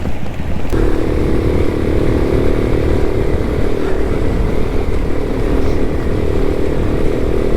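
Small moped engine running while riding, with a low rumble throughout; a steady, higher engine hum sets in a little under a second in and holds.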